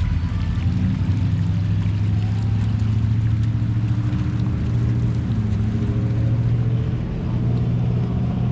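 A motor engine running with a steady low hum, its pitch shifting slightly about five and again about seven seconds in.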